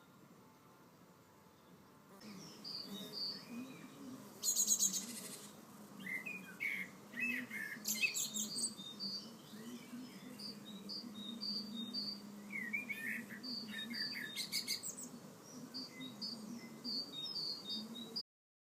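Birds singing with many short chirps and two loud, fast rattling trills, over a low wavering buzz of bees flying. It all cuts off suddenly near the end.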